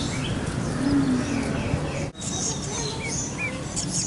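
Aviary birds chirping: many short, quick calls overlapping over a steady background murmur. The sound drops out abruptly for a moment about two seconds in.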